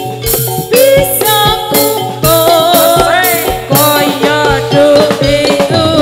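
Live Javanese folk-dance band music: a wavering melody line over steady drum beats and rattling percussion.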